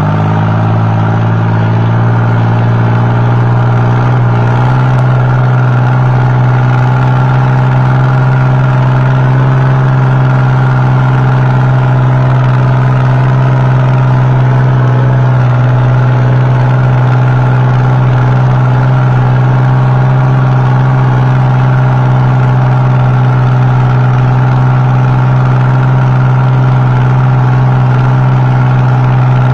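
Kubota tractor's diesel engine running loud and steady through a new stainless-steel exhaust pipe, holding a constant speed, with a slight change in its note about four seconds in.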